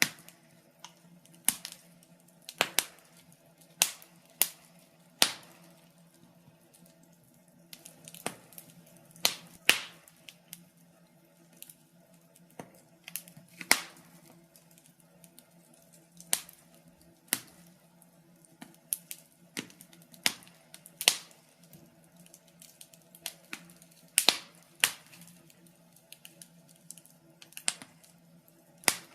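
Wood fire in a fireplace crackling: irregular sharp pops and snaps, roughly one or two a second, some much louder than others, over a faint steady hum.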